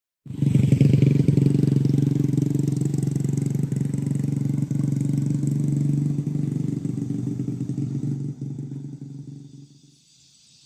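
Truck engine running loudly with a fast, even pulsing beat, fading away over the last couple of seconds.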